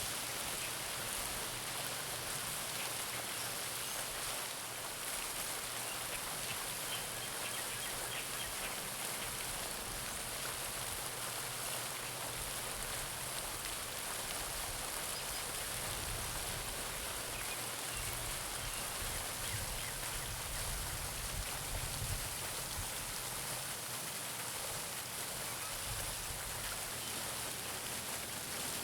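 Garden fountain splashing steadily into a pond: a constant hiss of falling water, with faint bird chirps now and then.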